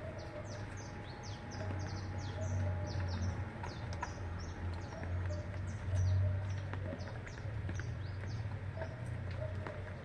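A group of small birds chirping continuously, many short high-pitched chirps overlapping one another, over a steady low hum.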